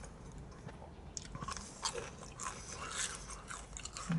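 A person chewing the crispy battered tail end of a fried whiting fillet: irregular crisp crunches.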